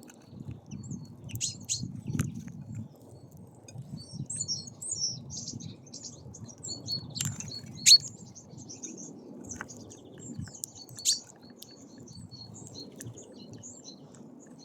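Small songbirds at a feeder chirping and twittering in quick short notes, with several sharp knocks, the loudest about eight seconds in. A low rumble runs underneath.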